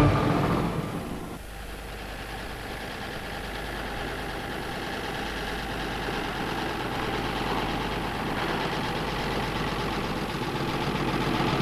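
Engine of an old car running as it drives toward the listener, growing gradually louder as it comes closer. Background music fades out in the first second or so.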